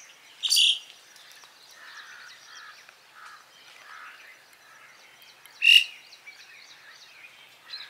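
Birds chirping and calling, with two louder short calls, one about half a second in and one just before six seconds.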